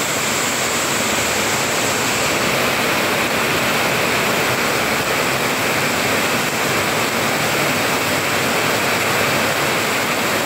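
Heavy rain pouring in a strong windstorm, a loud, steady, unbroken rush of falling water and wind.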